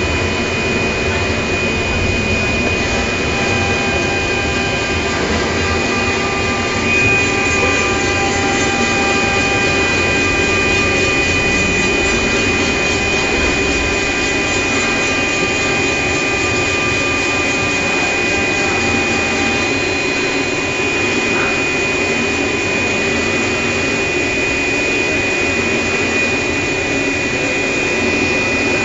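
Pattern-cutting machine running, a steady whirring drone with a high steady whine over it, like a vacuum blower; a brief rising tone comes in right at the end.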